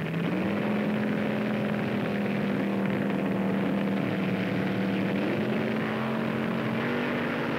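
Top Fuel dragster engines running with a steady, even-pitched drone.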